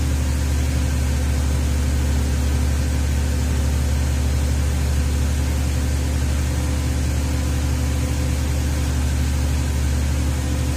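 2004 Ford Freestar V6 engine running steadily, hot, with its electric cooling fans commanded to low speed but not running.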